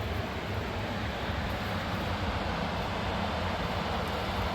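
Steady rushing roar of a fast-flowing mountain river, an even noise with no distinct events.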